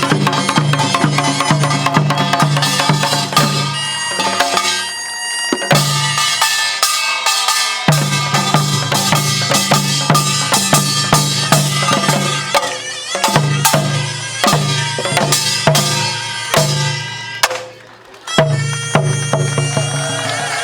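Korean pungmul band playing: steady repeated drum strokes under sharp percussion hits and held pitched tones. The music thins out about four seconds in, nearly stops about three seconds before the end, then comes back loud.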